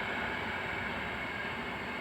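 Twin model jet turbines of a home-built Tornado running steadily: an even rushing hiss with a high tone held throughout.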